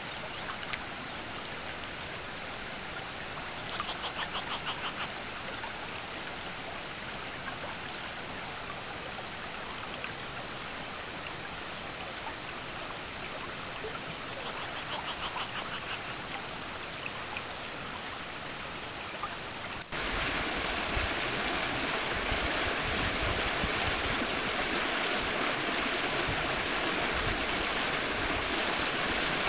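Spring meltwater stream running steadily, with a faint steady high tone behind it. Twice a loud, rapid trill lasting about a second and a half cuts through. About two-thirds of the way in the sound changes abruptly to a louder, fuller rush of falling water.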